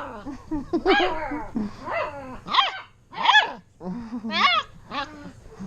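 Bernese Mountain Dog puppies yipping and whining in play: a string of about six or seven short, high, wavering calls, with a low growl about four seconds in.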